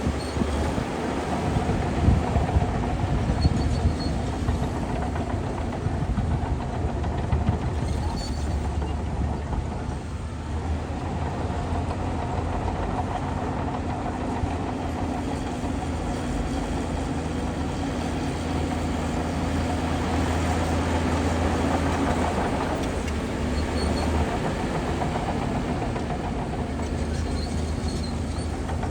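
Heavy diesel engine of a bulldozer running steadily at a constant speed while it works, with a few knocks in the first several seconds.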